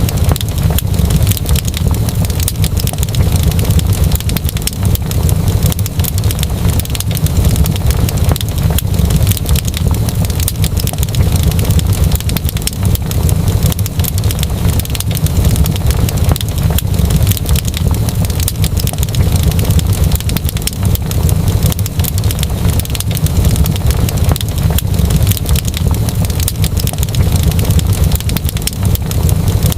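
Wood fire crackling steadily, with many small quick pops over a steady low rumble.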